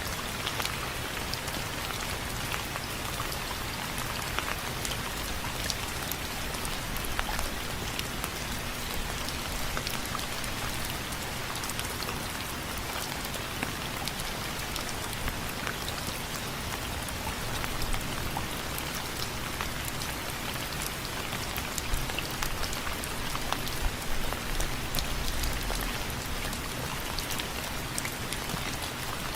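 Rain falling on window frames: a steady patter with many separate drops ticking on the frame.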